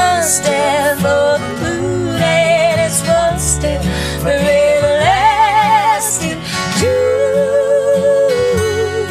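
Acoustic folk band playing live: guitar accompaniment under long, held melody notes that waver in pitch.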